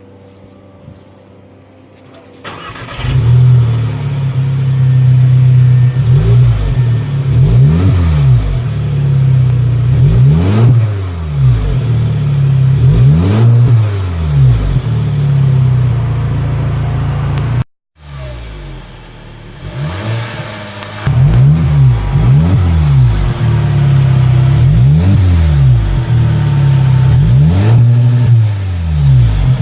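The exhaust of a 2016 Audi A3 with its muffler cut off, as a muffler delete. The engine starts about three seconds in, then is revved over and over, each rev rising and falling in pitch with a deep, loud exhaust note. The sound drops out for a moment near the middle.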